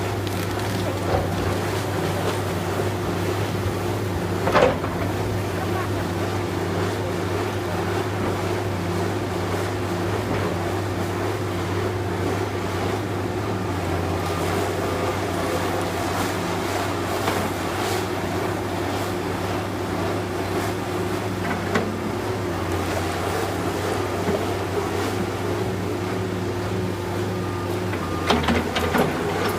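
Diesel engine of heavy demolition machinery running steadily, with a sharp crack about four and a half seconds in and a few crunching cracks near the end as the building is broken up.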